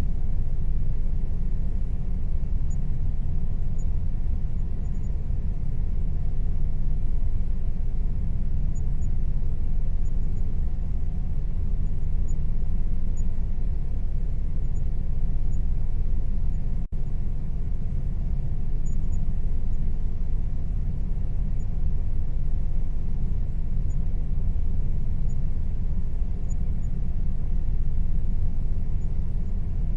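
Air conditioner running steadily: an even low hum and rumble with a faint steady tone above it, broken once by a momentary dropout a little past the middle.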